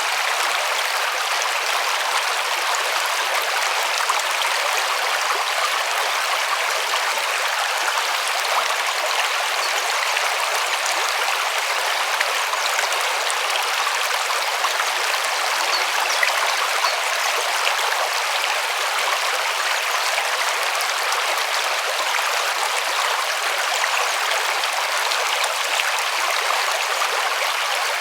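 River water flowing over stones in a steady rush, with a trickling splash on top and no deep rumble.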